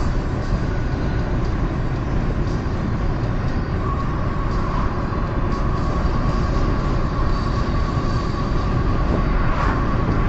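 Steady road noise of a car driving on a highway, heard from inside: a continuous low rumble with a faint steady whine.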